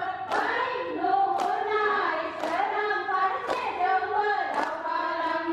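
A group of women singing a song together, clapping in time about once a second.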